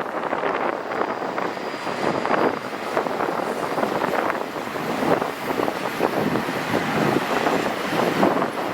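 Long intermodal freight train rolling past: steel wheels on rail making a steady rumble, broken by many quick clicks and clacks.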